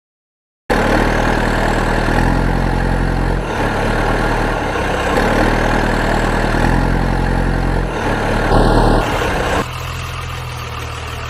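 Heavy vehicle engine idling steadily, cutting in abruptly after a moment of dead silence, its pitch shifting slightly a few times. A short high tone sounds briefly about 8.5 s in.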